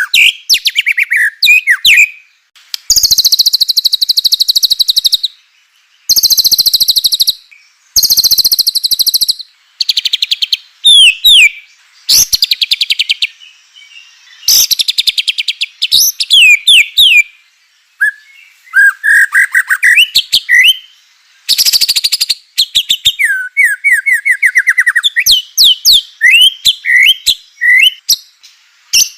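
White-rumped shama (murai batu) in full song: loud bursts of about two seconds of very fast, rattling repeated notes alternate with clear whistled phrases that slide up and down, with short pauses between phrases. These are the rattling "kretekan" and rapid-fire "tembakan" phrases of a shama singing hard.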